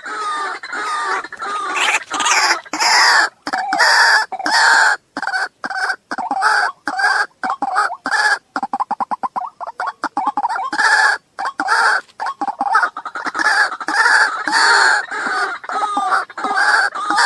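Waterhen calling: a long run of loud, harsh, repeated clucking calls, with a rapid string of short clipped notes about halfway through.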